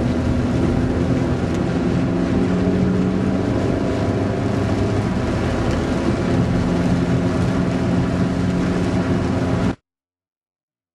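Heavy thunderstorm rain and wind, a loud steady rushing noise with a low steady hum underneath; it cuts off suddenly near the end.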